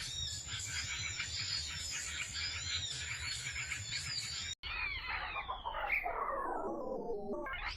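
Small birds chirping in quick repeated arching notes over a steady high-pitched whine. About four and a half seconds in, the sound cuts off abruptly and gives way to one long call that slides steadily down in pitch, then turns back up near the end.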